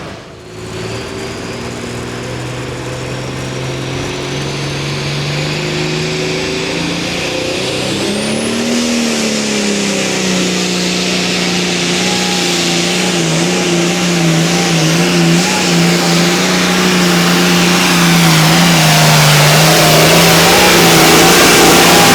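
Engine of a competition pulling vehicle held at full throttle while pulling the weighted sled. The pitch briefly rises and dips about eight seconds in, then holds steady at high revs as the sound grows steadily louder.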